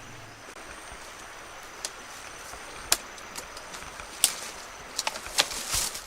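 Several sharp, irregular knocks, with a quick cluster of them near the end.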